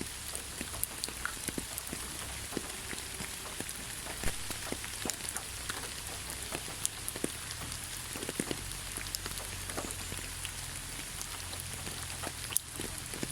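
Steady rain falling on leaves: an even patter of many scattered drop ticks over a soft hiss.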